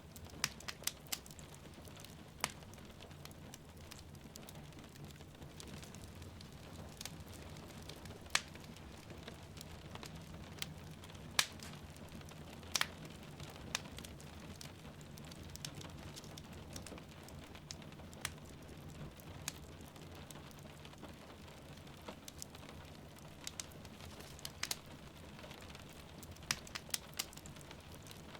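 Wood fire crackling in a fireplace, with irregular sharp pops and snaps, over a steady hiss of rain falling outside.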